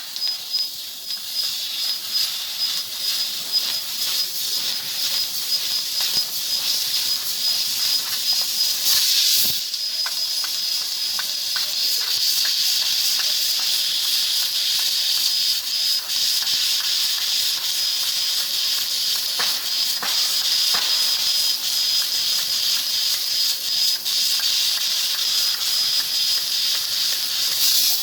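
Sheet-metal CNC laser cutting machine cutting, a steady high hiss of the cutting-head gas jet with a thin high whistle and scattered faint crackles. There is a brief louder burst about nine seconds in.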